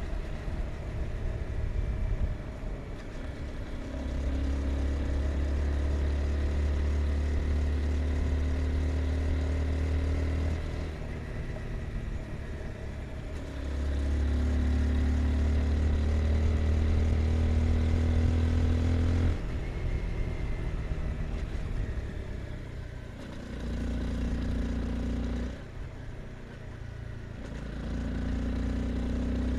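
Honda CBR 250R single-cylinder engine pulling under throttle through the gears, its note climbing in each loud stretch and dropping suddenly when the throttle is closed, about three times.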